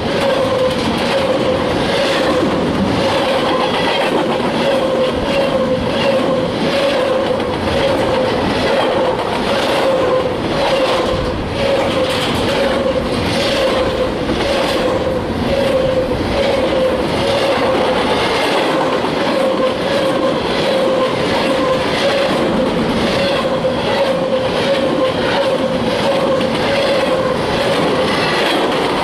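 Freight train cars rolling past, their wheels clicking in a regular rhythm over the rail joints, with a steady whining tone underneath.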